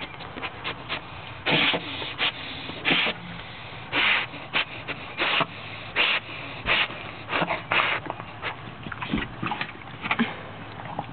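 A West Highland white terrier sniffing and snorting hard in quick, irregular bursts, nose working to track the scent of something hidden in the wall.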